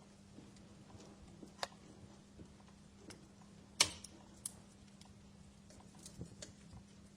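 Wood fire crackling, with sparse irregular pops and snaps. The loudest is a sharp pop about four seconds in, over a faint steady hum.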